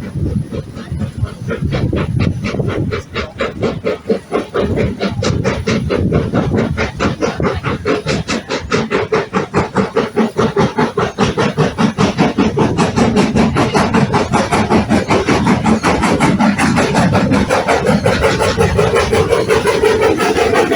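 Steam locomotive's exhaust chuffing as it pulls away, the beats quickening and growing louder as it gathers speed, over a steady hiss of steam.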